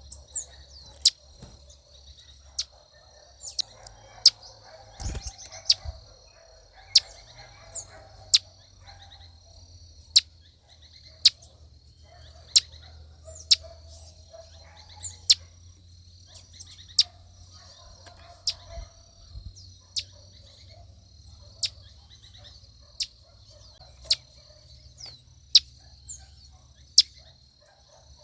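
Birds chirping: one bird repeats a sharp, high, falling chirp about every second and a half over a steady high background chorus.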